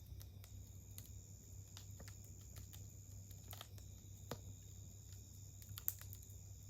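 Campfire wood crackling faintly with scattered, irregular pops, the sharpest a little before the end. Under it run a steady low hum and a thin, steady high tone.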